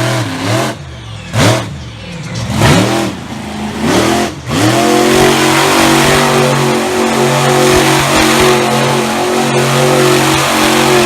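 Monster truck engine revved in several quick blips, then held loud and steady at high revs from about halfway in.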